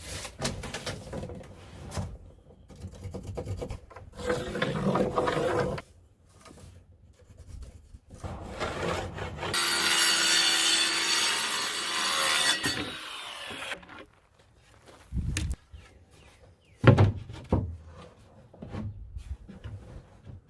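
Wooden drawer parts rubbing and scraping, with a steady, hissing stretch of about four seconds midway and a few sharp knocks near the end.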